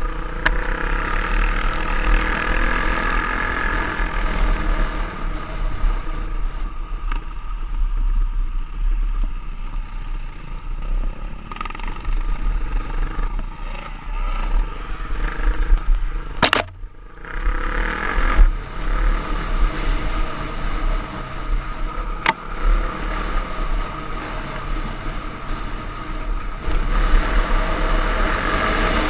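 Trail bike engine running steadily under way, with a sharp click and a brief drop in the engine noise about two-thirds of the way through.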